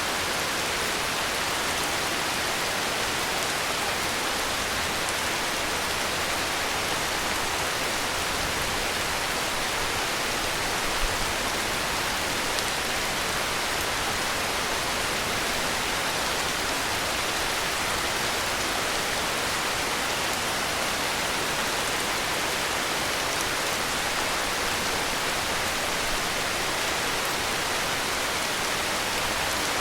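Steady heavy rain falling, a dense even hiss with no separate drops standing out.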